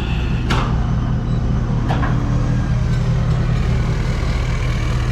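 A vehicle engine running steadily with a low hum, with a couple of brief clicks about half a second and two seconds in.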